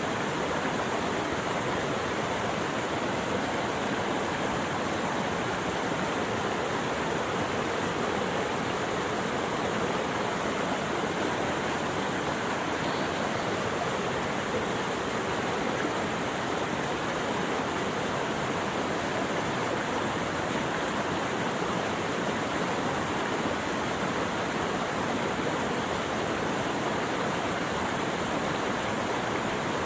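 Rushing water: a steady, even hiss with no breaks or changes.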